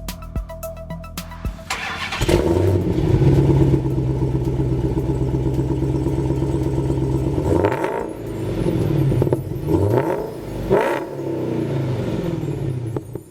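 The supercharged V8 of a 2019 Dodge Challenger SRT Hellcat comes in loud about two seconds in and runs steadily, then is blipped several times near the end, its pitch rising and falling with each rev. Music plays over the first couple of seconds.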